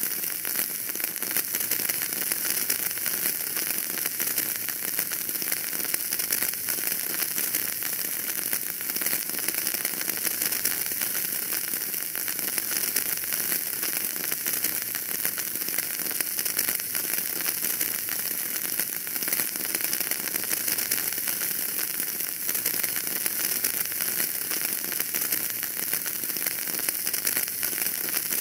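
Wood fire burning in a fireplace, crackling steadily with a dense run of small pops over a hiss.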